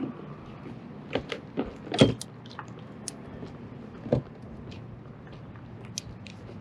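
Scattered clicks and knocks of gear being handled on a kayak, about half a dozen, the loudest about two seconds in, over a faint steady hum.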